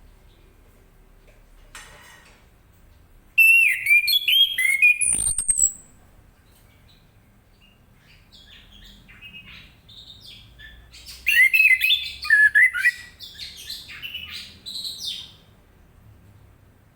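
Orange-headed thrush singing: two bursts of quick, varied warbled phrases with sliding notes and a high down-slurred whistle, the first about three seconds in and a longer one about eleven seconds in, with softer chirps between.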